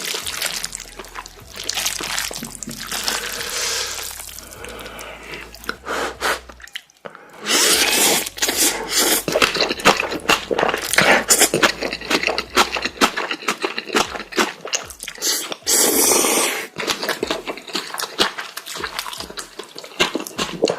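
Close-miked eating sounds: noodles slurped and chewed, with many wet clicks and mouth smacks, louder after a brief break about seven seconds in.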